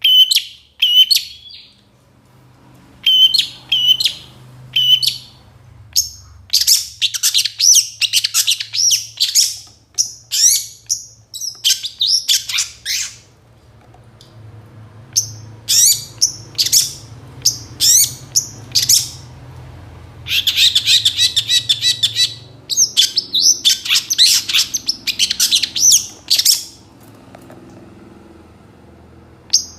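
Long-tailed shrike (cendet) singing a busy song of rapid chirps, trills and mimicked calls in bursts with short pauses, including a harsh buzzy stretch a little past the middle. It falls quiet for the last few seconds.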